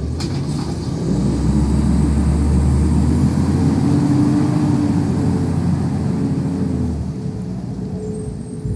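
Garbage truck's engine pulling away under load, its low rumble rising in pitch and then easing off, fading about seven seconds in.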